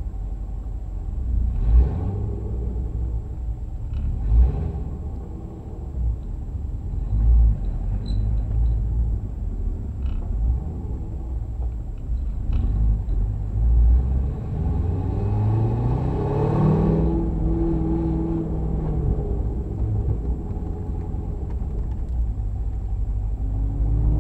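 Car engines running over a steady low rumble with several louder surges. About two-thirds of the way through, one engine rises in pitch as it accelerates, holds, then fades away. Another starts to rise near the end.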